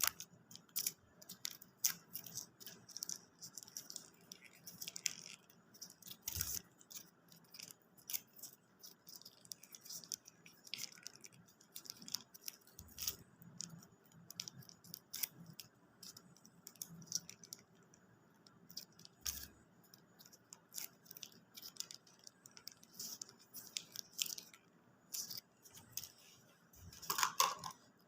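Close-miked eating of fast food: chewing and small mouth sounds, a steady run of soft crisp clicks and crackles, with a louder burst near the end.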